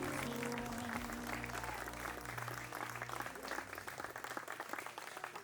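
A crowd of guests clapping, the applause thinning and fading toward the end, with music fading out under it in the first few seconds.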